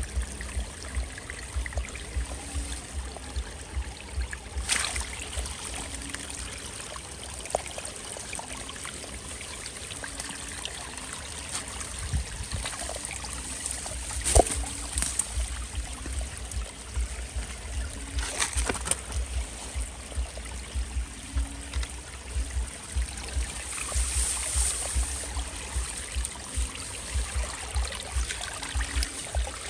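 Water trickling and flowing steadily, with a few sharp splashes or knocks. The loudest comes about fourteen seconds in.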